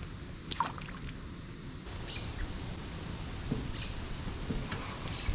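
A bird calling repeatedly: a short, high call about every second and a half, with a fainter sweeping call about half a second in.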